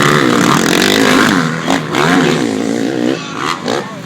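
Several motocross bike engines revving up and down together, their pitches rising and falling as the riders work the throttle, with short drops in engine sound around the middle and near the end.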